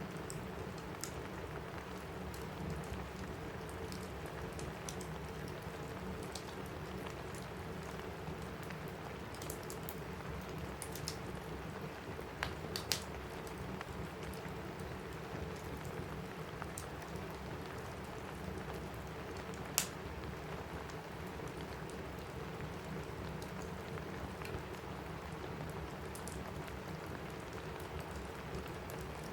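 Steady rain on a cabin roof, an even hiss with no letup, mixed with the sparse sharp crackles and pops of a wood fire in a fireplace. A few louder pops come about halfway through and again a little later.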